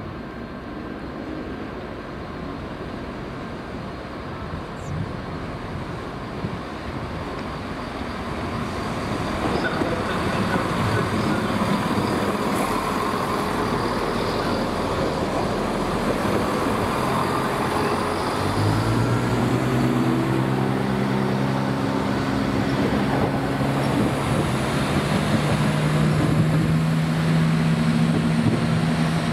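A train at the station platform: rail and train noise swells over the first half, and about two-thirds of the way in a steady low drone with several pitches starts up and holds to the end.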